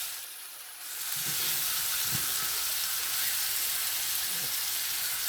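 T-bone steaks frying in butter and garlic in a pan: a steady sizzle that dips quieter for a moment in the first second, then holds even.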